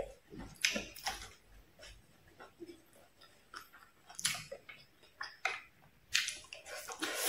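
Close-up chewing of a mouthful of stir-fried fish with ginger and rice, a string of irregular short mouth noises.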